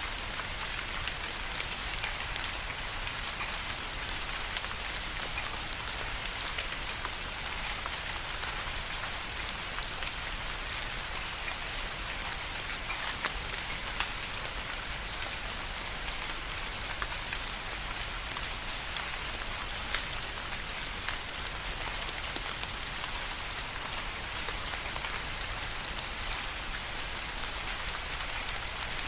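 Steady rain falling, a constant hiss strongest in the upper range with many small drop ticks scattered through it.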